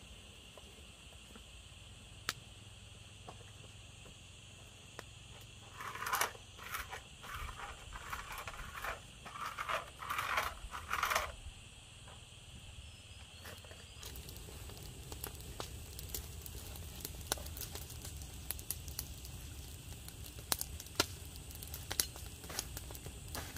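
Irregular rustling, crinkling and scraping of something being handled, in a cluster from about six to eleven seconds in, over a steady high hiss. Scattered light clicks and taps follow.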